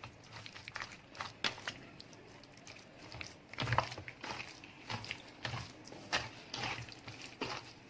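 Chicken pieces being mixed in a thick, wet masala marinade, giving irregular squelches and small clicks, which grow louder and come more often from about three and a half seconds in.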